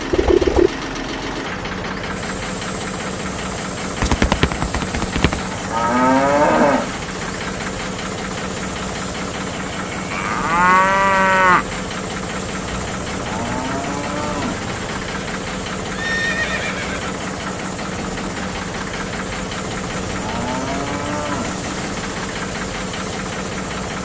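Cow mooing five times, the loudest and longest call about halfway through, over a steady motor hum and hiss. A quick run of clicks comes a few seconds before the first moo.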